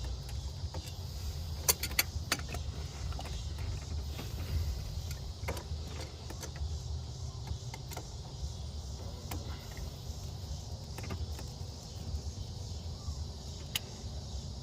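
Scattered sharp metallic clicks and clinks of hand work on a heater hose connection in an engine bay, over a steady low rumble.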